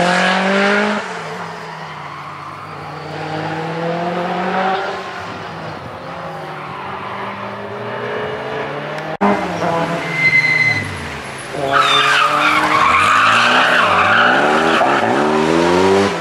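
Group B rally car engines running at high revs as the cars accelerate hard. The pitch climbs and drops back at each gear change, with an abrupt cut to another car about nine seconds in. Tyre noise joins the engine in the last few seconds.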